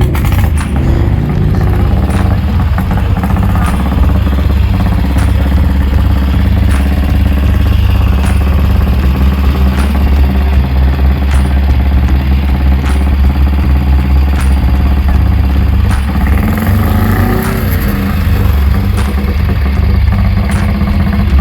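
Motorcycle engine running, with a loud, steady low rumble.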